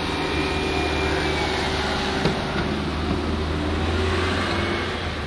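Car engine idling steadily, a low hum of unchanging pitch, with a single sharp click a little over two seconds in.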